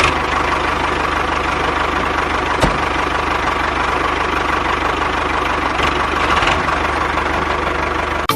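Engine idling steadily with a fast, even knocking pulse, cutting off abruptly at the end.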